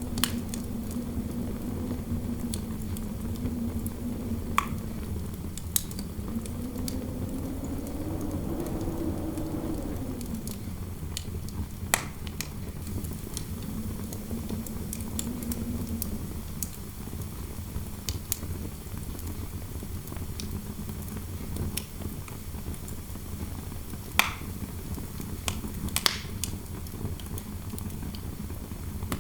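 Fireplace fire crackling with scattered sharp pops over a low rumble of interior wind. A low, wavering howl rises and falls in pitch, then dies down about halfway through.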